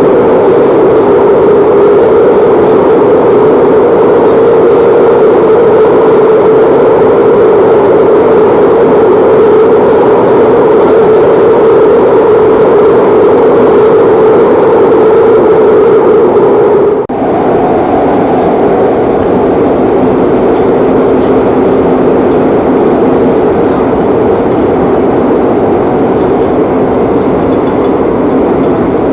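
Metro de Madrid series 8000 train running at speed through a tunnel, heard from inside the carriage: a steady, loud rumble of wheels on rail. About two-thirds of the way through it briefly dips, then carries on with a slightly changed tone.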